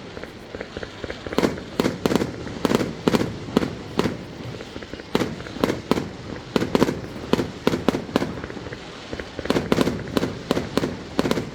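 Fireworks going off all around: a dense run of sharp bangs and cracks, several a second, at irregular intervals.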